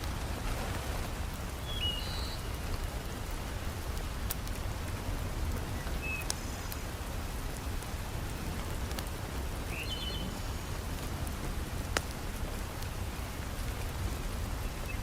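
Steady heavy rain, with a deep low rumble beneath it. A few sharp clicks, and a few brief high chirps, stand out over the rain.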